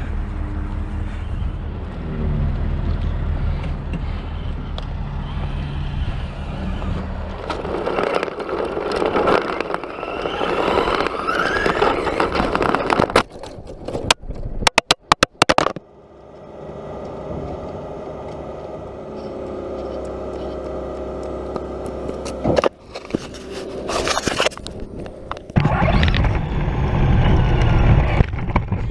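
Radio-controlled truck driving: its electric motor whines up and down with the throttle while the tyres scrape and clatter over rough ground. About halfway there is a short stretch of rapid clicks and drop-outs.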